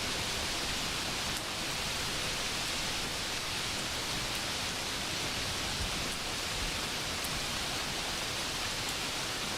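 Steady rain, an even hiss, with a few faint ticks.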